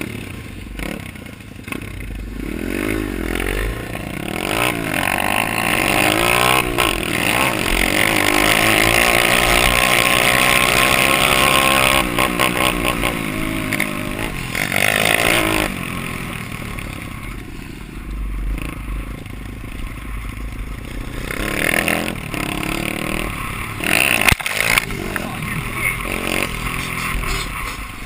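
Dirt bike engine being ridden hard: it revs up in repeated rising sweeps through the gears, backs off sharply about twelve seconds in, and picks up again twice later on.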